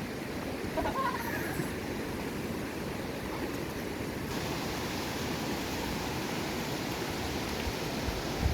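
Swollen small mountain river in monsoon flood, rushing water making a steady, even noise.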